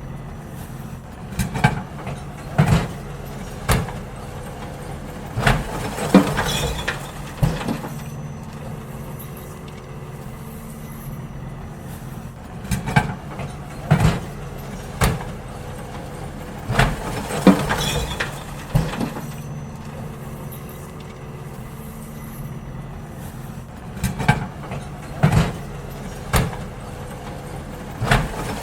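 Garbage truck engine running steadily while bins are emptied: groups of sharp bangs and clatters from the bins knocking against the truck, coming again every few seconds.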